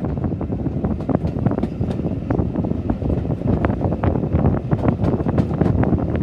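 Wind buffeting the microphone held out of a moving railway coach's window, over the low rumble of the coach running along the track, with frequent short knocks and rattles.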